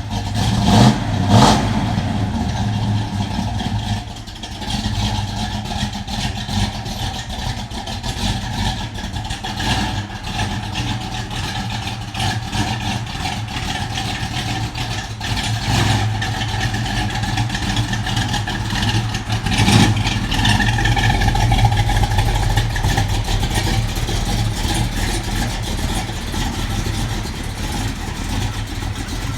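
1984 Chevrolet Caprice engine running on a cold start: a steady idle, blipped up louder about a second in and again around twenty seconds in.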